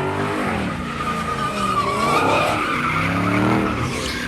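Car doing a burnout: tires squealing in a sustained high screech while the engine revs up and down.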